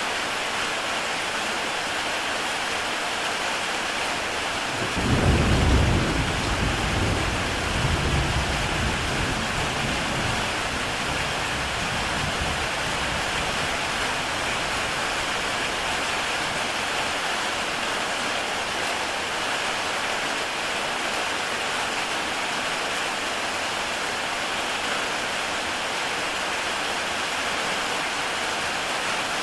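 Heavy rain falling steadily on a tile roof. About five seconds in, a low rumble of thunder swells and dies away over several seconds.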